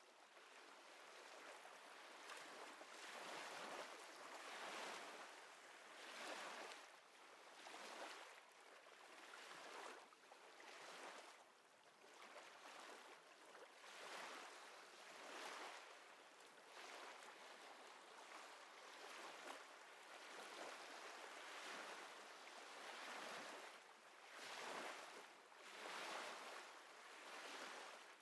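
Faint lapping of small waves: a soft hiss of water that swells and fades every second or two.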